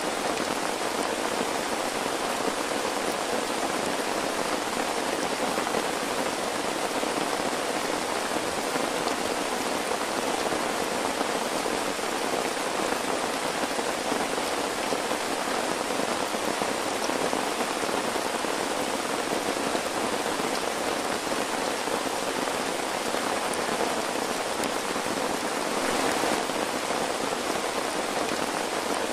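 Steady heavy rain falling on the tent, an even, unbroken hiss, swelling briefly near the end.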